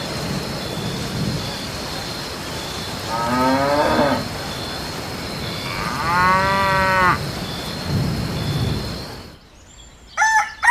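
A cow mooing twice, a few seconds apart, over a steady low hum. Near the end, a rooster starts crowing.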